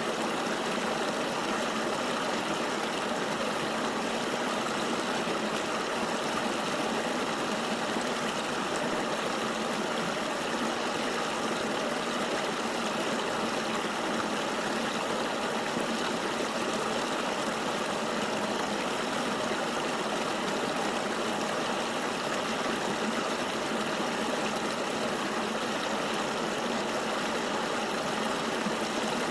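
River water flowing, a steady, even noise that does not change.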